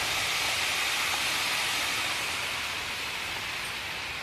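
Steady rain falling, an even hiss that eases off slightly toward the end.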